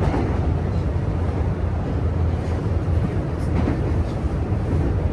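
Steady low rumble of a JR West 323 series electric train running, heard from inside the passenger car.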